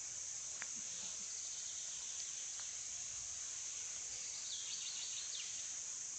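Steady, high-pitched drone of insects in a forest. About four seconds in, a bird gives a quick series of short chirps.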